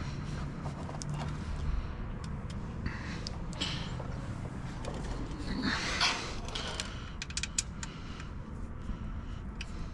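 Hand tools being handled: scattered light metallic clicks and brief rustles as sockets and wrenches are picked through, over a low steady background hum.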